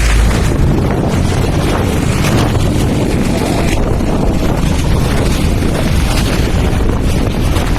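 Loud, steady rumbling wind buffeting the microphone.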